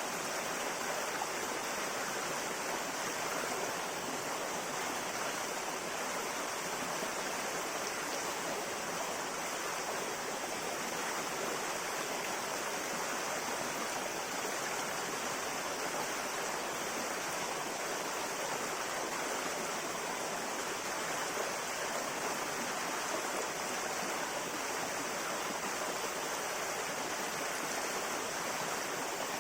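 Flowing river water, a steady even rush of a stream over rocks.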